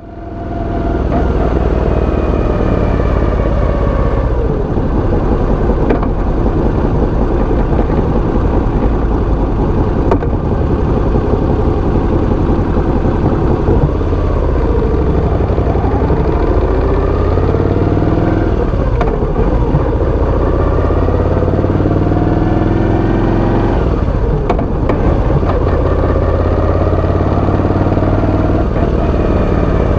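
Moto Guzzi V85 TT's air-cooled V-twin running through aftermarket Mistral big-bore header pipes and Y-pipe into an Agostini slip-on with its dB killer fitted, the revs rising and falling again and again.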